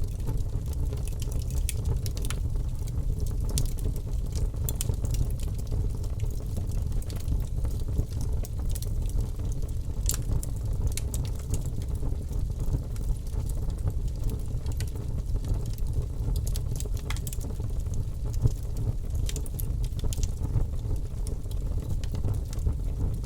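Logs burning in a fireplace: a steady low rumble with scattered sharp crackles and pops at irregular intervals.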